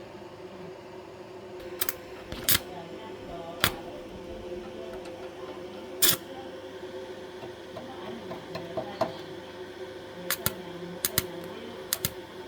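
A steady machine hum with a held tone, broken by about a dozen sharp, irregular clicks and knocks, the loudest about six seconds in.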